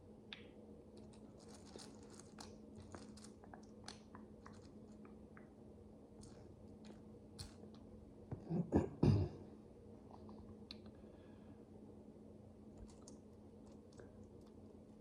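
Tiny plastic micro bricks clicking and tapping as they are handled and pressed together, in scattered small clicks, with a louder flurry of knocks about nine seconds in. A faint steady hum runs underneath.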